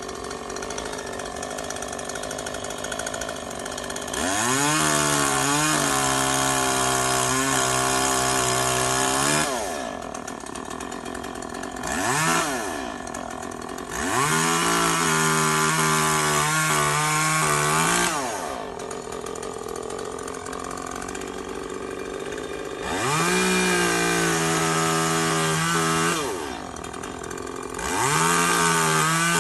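Zenoah GZ2700T two-stroke chainsaw idling, then opened up to full throttle four times for several seconds each, with a short blip in between, dropping back to idle after each, as it cuts cherry wood.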